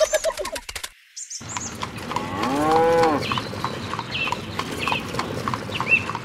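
A cow mooing once, a long call that rises and falls about two to three seconds in, over a regular clip-clop of hooves about three steps a second, with a few short high chirps in the background.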